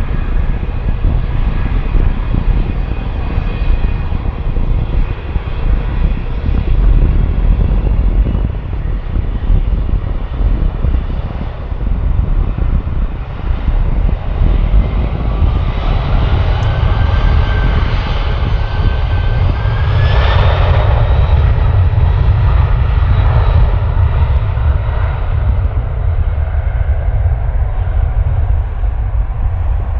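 Jet airliner's engines running loud: a steady deep rumble, with a whine that climbs in pitch and the sound at its strongest about twenty seconds in as the aircraft passes closest.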